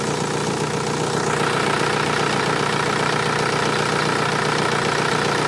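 Ford Galaxy's 1.9 TDI AHU four-cylinder turbodiesel idling steadily. About a second in, the sound grows a little louder and brighter.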